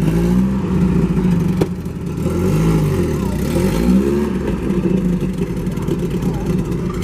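Car engines running and revving, the pitch rising and falling a few times.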